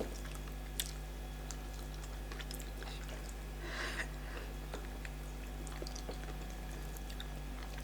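Close-up eating sounds of starch and bitter leaf soup: soft wet chewing and mouth clicks, with a short louder noise about four seconds in. A steady low electrical hum runs underneath.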